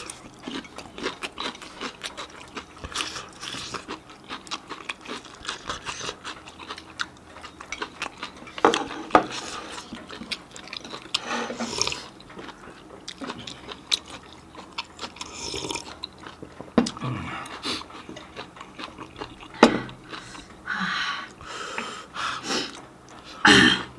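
Close-up mouth sounds of people eating a spicy meal: wet chewing, smacking and small clicks, with a few louder knocks. Short hissing breaths come in between bites, from the chili heat.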